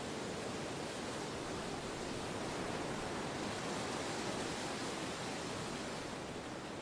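Steady wind noise, an even rush with no gusts or breaks that swells slightly midway through.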